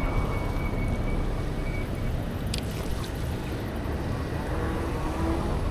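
Steady rush of wind buffeting the microphone while riding, with a low rumble underneath.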